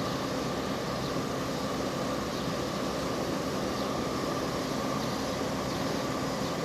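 Steady mechanical whir with a constant hum made of a few steady tones, from machinery running without change.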